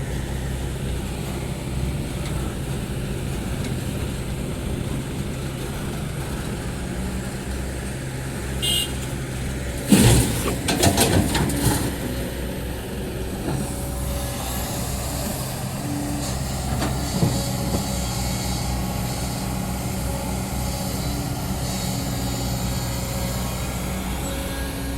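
Heavy diesel excavator engine running steadily under load, with a burst of loud metallic clanks and knocks about ten seconds in, typical of the bucket striking hard ground or rock.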